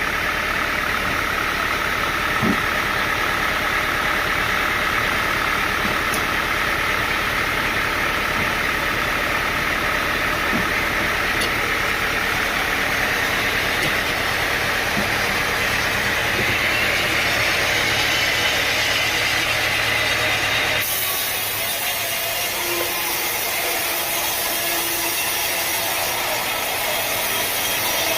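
An engine running steadily, likely driving sawmill machinery. About three-quarters of the way in, the sound changes abruptly to a hissier mechanical noise with much less low rumble.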